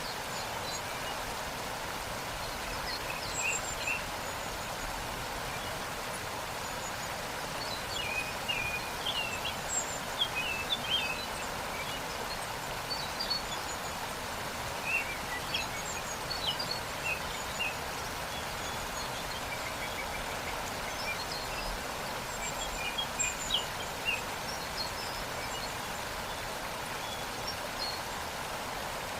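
Steady rush of a waterfall, with songbirds chirping and calling in short scattered bursts over it.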